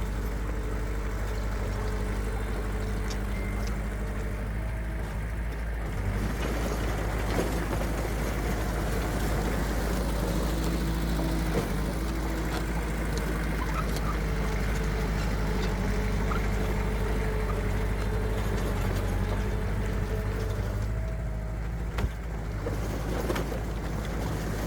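Diesel engines of heavy earthmoving machines running steadily with a low hum, the pitch shifting a little now and then. There is a single sharp knock near the end.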